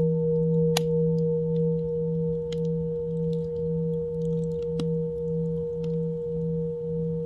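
Singing bowl ringing with a long, steady sustain, its low tone wavering in a slow pulse about twice a second. Scattered small crackles of a campfire sound over it, with one sharp pop about a second in.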